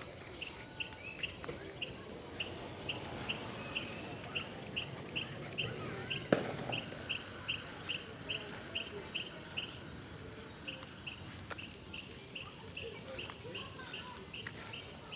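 Crickets chirping at night: a regular high chirp about three times a second, pausing briefly around ten seconds in, over a steady high insect tone. A single sharp crack sounds about six seconds in.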